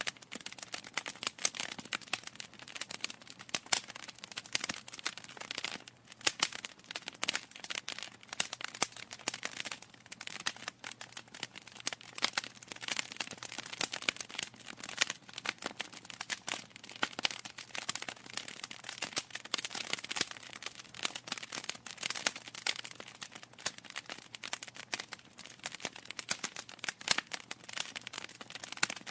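Wood fire crackling in a fireplace: a dense, irregular run of sharp pops and snaps from burning logs over a soft hiss.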